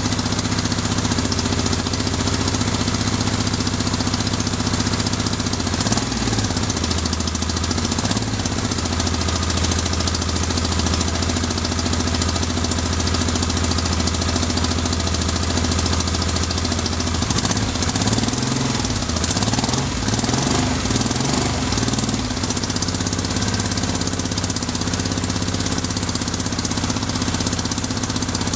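Yamaha XS750 three-cylinder engine running unevenly on only two of its three cylinders: a newly revived non-runner that is misfiring on one cylinder. It mostly holds a steady idle, with changes in engine speed about six seconds in and again over several seconds past the middle.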